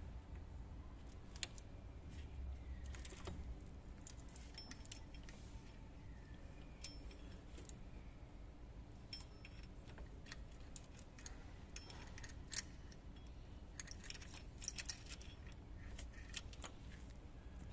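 Scattered small metallic clinks and taps of hand tools and bolts being handled, several of them ringing briefly, over a low steady hum.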